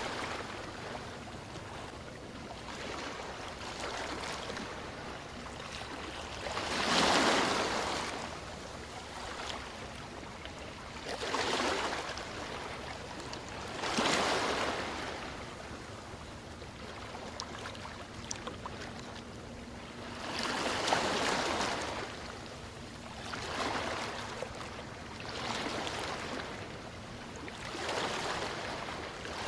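Sea waves breaking and washing in, one swell every few seconds over a steady background hiss.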